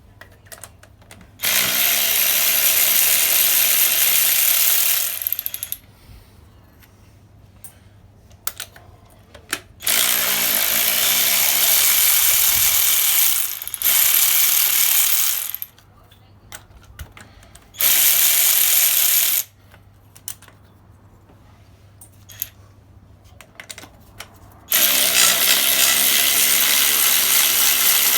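Cordless power tool spinning the loosened, rusted exhaust manifold nuts and studs off, running in five steady bursts of one to four seconds, with clicks of handling in the pauses between.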